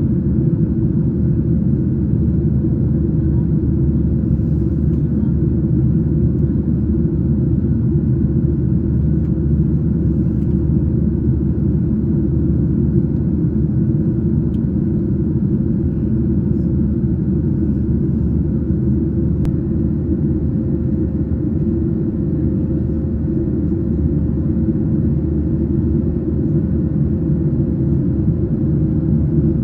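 Boeing 737 airliner's jet engines and airflow: a steady low rumble with a faint steady hum above it, holding one level throughout.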